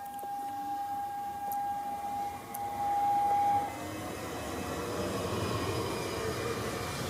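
Stadler FLIRT electric train arriving: a steady high tone, loudest just before it cuts off about three and a half seconds in, then the growing noise of the train's wheels on the rails as it passes close by.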